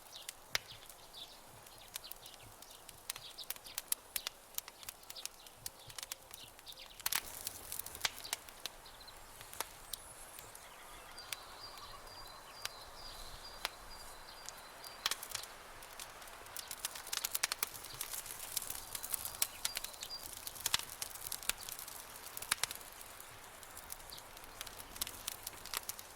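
Campfire crackling, with many sharp irregular pops and snaps over a soft steady hiss. A faint, high, repeated chirping runs from about 11 to 15 seconds in.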